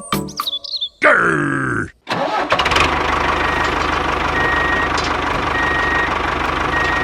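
After the end of a music intro, an engine starts running steadily with a short high beep repeating about once a second.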